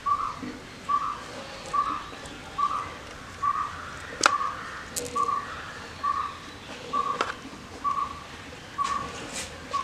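A bird calls one short whistled note over and over, evenly spaced a little under a second apart. A few sharp clicks come in between as tamarind pod shells are cracked open by hand and knife; the loudest is about four seconds in.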